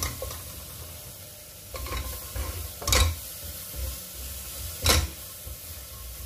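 Curry paste and curry powder frying in a steel pot, sizzling while a spatula stirs and scrapes through it, with a few sharper scrapes against the pot about two, three and five seconds in.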